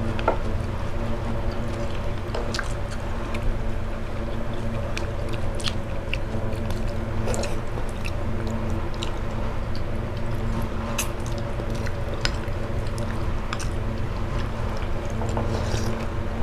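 Close-miked eating: two people chewing lomi noodle soup, with scattered soft mouth and utensil clicks over a steady low hum.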